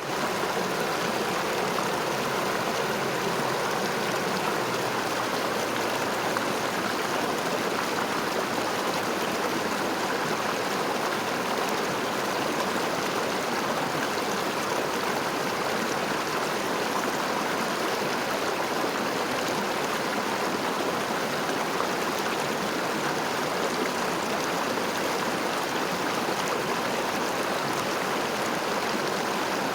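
A river flowing: a steady rushing of water with no breaks.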